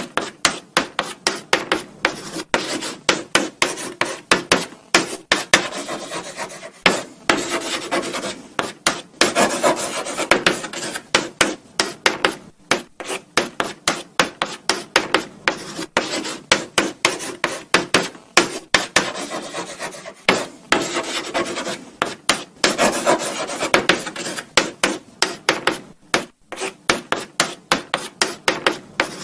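Chalk writing on a blackboard: quick, irregular scratching strokes with sharp taps as the chalk meets the board, broken by short pauses, and a few longer scraping runs.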